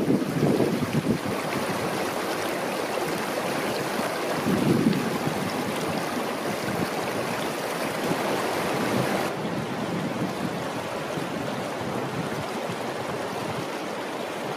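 Steady rushing noise with no clear events; about nine seconds in the hiss abruptly turns duller.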